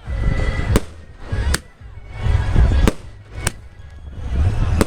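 Firecrackers going off: about five sharp bangs at irregular intervals, over a low rumbling noise that swells and fades.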